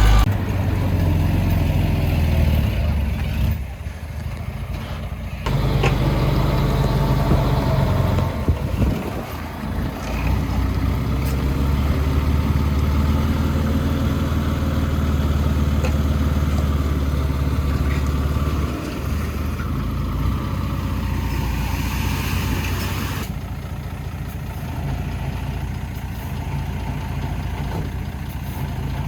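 Diesel engines of heavy earthmoving machinery running, their pitch and loudness shifting with load. The sound changes abruptly a few times.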